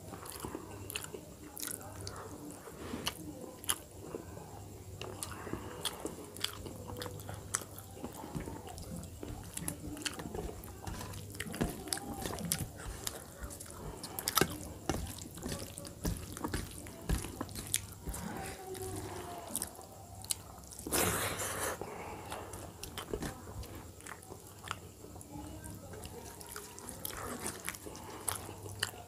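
Close-up mouth sounds of a person eating dal and rice by hand: chewing, wet lip-smacks and many small clicks, with fingers squishing and mixing rice in a steel plate. A steady low hum runs underneath, and a louder rush of noise about a second long comes a little after three-quarters of the way through.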